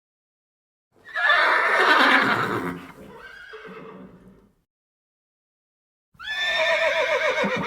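A horse whinnying twice: a first call about a second in, falling in pitch and trailing off, then a second, quavering call starting near the end.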